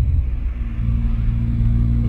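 Proton Saga FLX car engine heard from inside the cabin. Its note drops right at the start as the throttle eases, then runs as a steady, lower drone while the car climbs the hill road.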